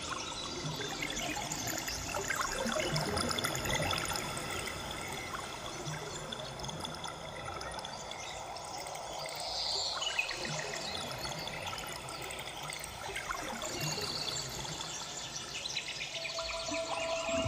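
Ambient meditation music layered with a running, trickling water sound. Near the end new sustained tones come in.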